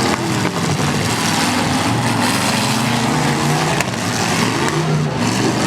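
Several pickup truck engines running hard at once, revving up and falling back, with a few faint knocks.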